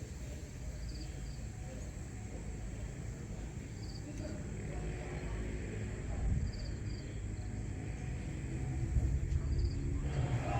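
Outdoor dawn ambience: a steady low rumble of wind on the microphone or distant traffic, with short high chirps repeating every second or so.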